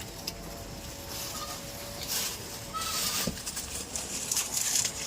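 Goat-pen sounds: several short bursts of rustling and shuffling, with a few brief high chirps.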